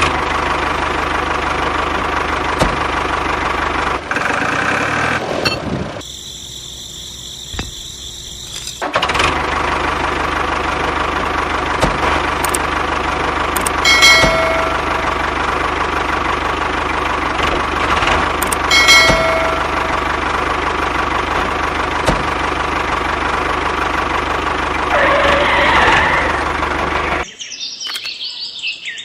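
Mini tractor engine running steadily, with a short break for a few seconds about a fifth of the way in. Two short pitched tones sound about five seconds apart, and the engine sound cuts off suddenly near the end.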